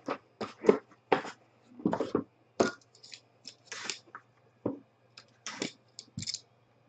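Trading cards and packaging being handled: a quick, irregular run of short rustling swishes and scrapes, over a faint low hum.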